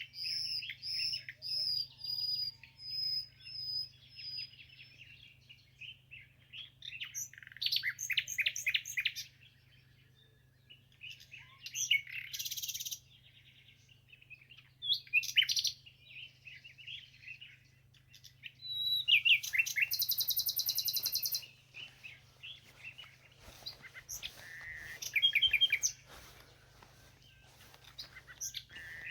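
Songbirds singing and calling. It opens with a run of repeated high whistled notes, followed by chattering trills and chirps, and a long fast rattling trill about two-thirds of the way through.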